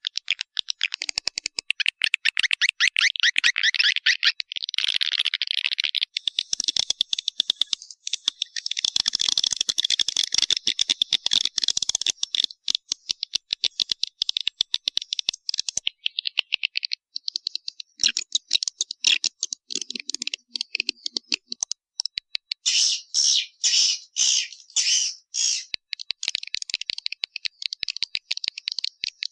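Swiftlet calling sound: dense, rapid dry clicking and chittering trills of edible-nest swiftlets, with a run of about eight loud pulsed bursts near the end. It is a lure call of the kind played to draw swiftlets into a nesting house.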